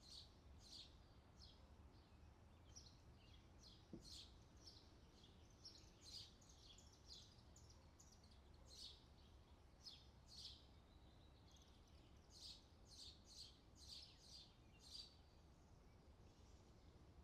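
Faint outdoor summer ambience: small birds chirping over and over in short high calls, over a low steady background hum, with a single faint tap about four seconds in.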